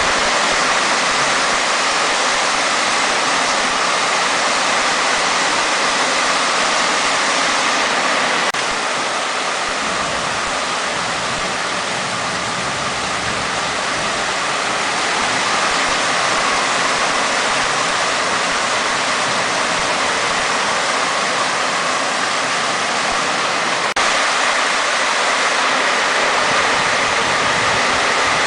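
Heavy rainstorm water: a steady, loud rush of pouring and running water. The level shifts abruptly about eight and a half seconds in and again near twenty-four seconds.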